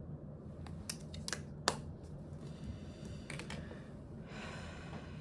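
Handling of makeup compacts and packaging: a few sharp plastic clicks and taps in the first two seconds, then two stretches of soft rubbing.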